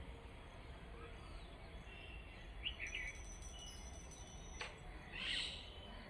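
Faint bird calls over a steady low background hum: a couple of short chirps about three seconds in, a sharp click, and a louder, harsh call near the end.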